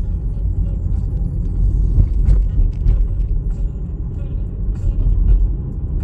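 Gusty wind buffeting the microphone: a loud, uneven low rumble that swells and dips.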